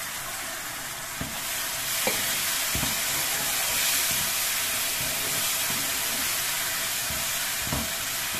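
Tomato purée frying in hot oil with onion and spice masala in a kadai: a steady sizzle that grows stronger about a second and a half in, while a wooden spatula stirs it. The spatula knocks softly against the pan a few times.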